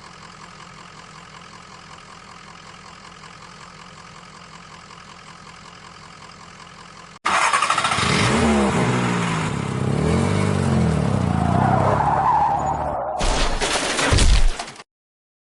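Engine sound: a quiet steady hum, then about seven seconds in a much louder engine revving, its pitch rising and falling, ending in a last burst that cuts off just before the end.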